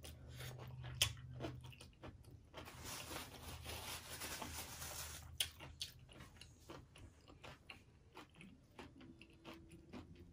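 Close-miked chewing of a crunchy mouthful of taco salad and Flamin' Hot Cheetos: wet crunching and small mouth clicks. It is loudest for a few seconds about a third of the way in, then goes on as softer, scattered chews.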